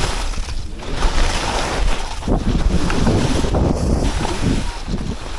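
Wind rushing over the microphone, with the hiss of skis sliding over snow, rising and falling in uneven surges.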